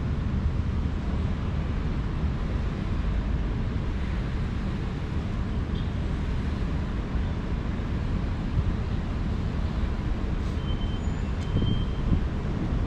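City ambience dominated by a steady low engine rumble. A few brief, thin high tones and small clicks come near the end.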